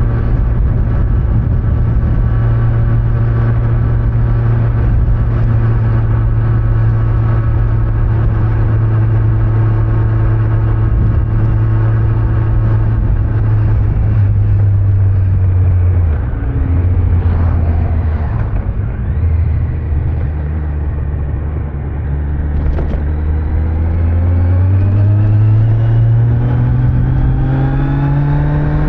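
Kawasaki Z900's inline-four engine on its stock exhaust, riding at steady revs, easing off a little over halfway through, then revving up steadily through the last few seconds as the bike accelerates. Wind and road noise run underneath.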